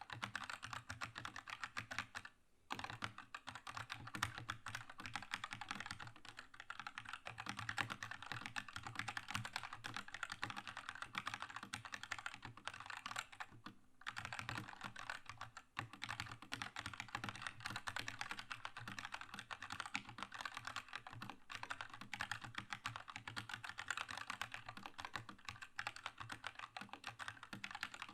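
Keychron K2 mechanical keyboard with red linear switches, typed on quickly and continuously as dense key clacks, with short pauses about two and a half seconds in and about halfway through.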